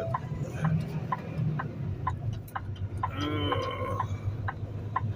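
Inside a semi-truck cab: the diesel engine drones steadily while a turn-signal flasher clicks about twice a second. A short voice-like sound comes about three seconds in.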